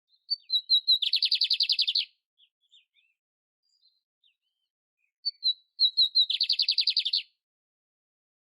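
Canário-império canary singing two song phrases, one about a second in and one about six seconds in. Each phrase is a few short, high separate notes running into a rapid trill that lasts about a second.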